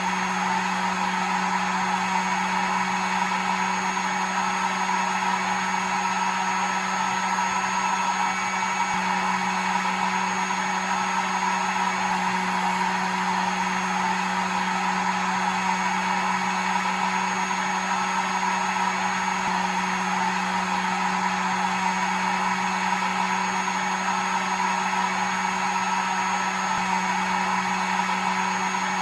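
Hair dryer running steadily: an even rush of air over a constant motor hum, with a faint high whine.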